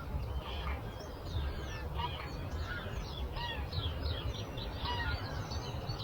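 Several birds chirping and calling in a dawn chorus, many short rising and falling notes overlapping, over a steady low background rumble.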